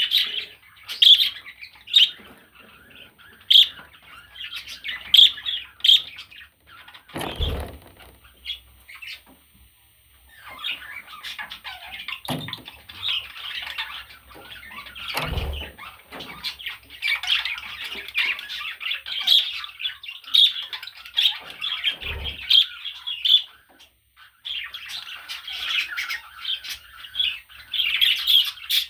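Budgerigar chattering: a near-continuous run of quick chirps, squawks and warbles, with a brief pause near the end. Three soft thumps come through, about a third, halfway and three quarters of the way in.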